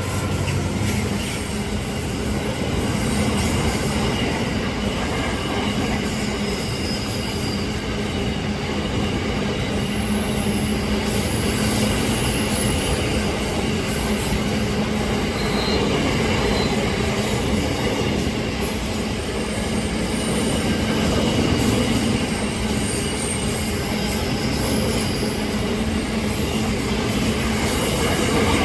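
A train rolling past, with steady noise of wheels running on the rails and brief faint high wheel squeals now and then.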